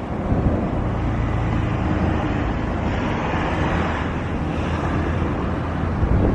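Jet airliner engines rumbling steadily, with a broad rush that swells for a couple of seconds in the middle. Wind buffets the microphone throughout.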